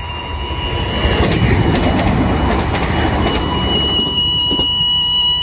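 A train passes over the level crossing: a loud rush of wheel and rail noise swells up about a second in, with a few sharp clicks. Underneath it, the crossing's warning alarms keep sounding steady tones; both alarms are taken to be faulty.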